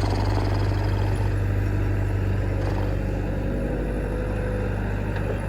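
Heavy diesel engine running steadily at a constant speed, with a strong low hum.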